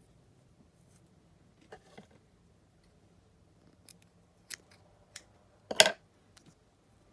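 Small fly-tying scissors snipping: a soft rustle of material, then a few sharp single snips and a louder double snip near the end.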